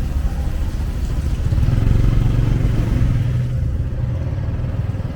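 A motor vehicle's engine running steadily, swelling louder for a second or two before easing back.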